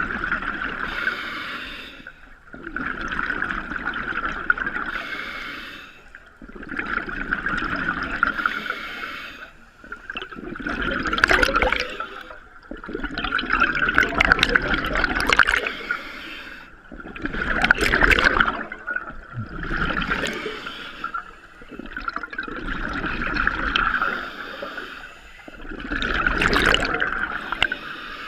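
Scuba diver breathing underwater through a regulator: the hiss of each breath and the rush of exhaled bubbles come in surges every few seconds.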